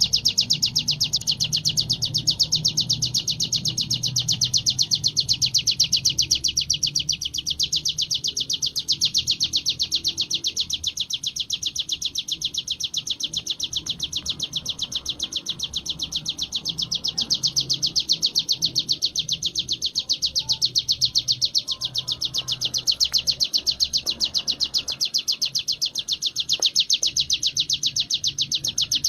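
Ciblek gunung (a prinia) singing its continuous 'ngebren' song: an unbroken, rapid rattling trill of short high notes, many to the second, with no pauses. A faint low hum runs underneath.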